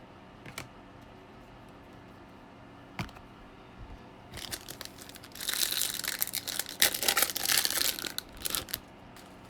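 A foil wrapper of a 2021 Bowman baseball card pack being torn open and crinkled, starting about four seconds in and loudest in the middle, after a couple of light taps.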